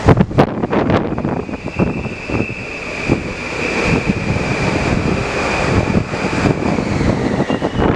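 Strong wind buffeting the microphone over the rumble of a train at the platform, with a steady high-pitched whine from about a second in until near the end.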